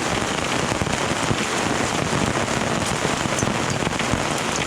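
Pea-size hail with rain pelting down steadily, a dense patter of many small hits.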